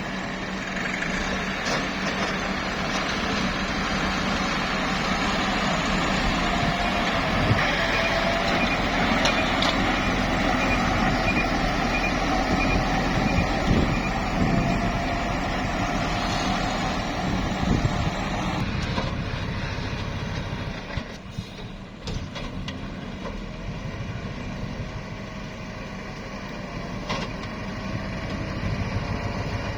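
Nissan dump truck engine running steadily, with a reversing beeper sounding at an even rate for about five seconds a quarter of the way in. The engine sound drops quieter about two-thirds of the way through.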